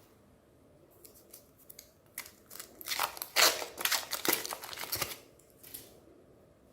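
Chocolate-coated ice cream bar crackling and crunching as a meat grinder crushes it: a few scattered crisp clicks, then a dense run of crackling for about two seconds, loudest near its start, ending with one last click.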